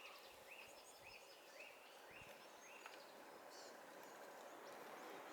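Near silence with a faint bird call: a short high note repeated about six times, evenly spaced, over the first three seconds, above a faint steady background hiss.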